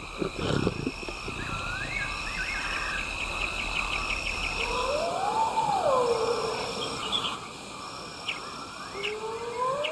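Evening bush ambience: insects trill in even, repeated pulses, with short chirps early on. A long call rises and then falls in pitch about halfway through, and again near the end.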